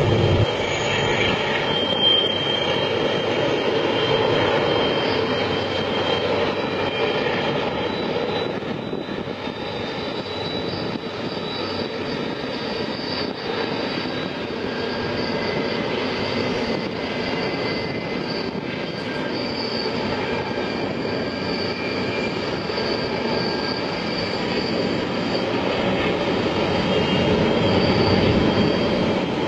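Long intermodal freight train, heard from a distance as it runs around a looping curve: a steady rumble of diesel locomotives and rolling wheels. Thin high squeals come and go throughout, typical of steel wheels on a tight curve.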